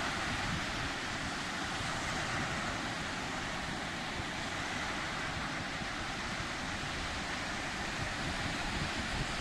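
Sea surf: a steady, even wash of waves with no single breaker standing out.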